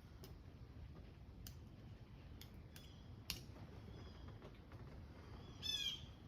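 Faint, scattered clicks and light taps of metal transaxle parts being handled as a bearing is fitted onto a shaft. A short bird chirp near the end.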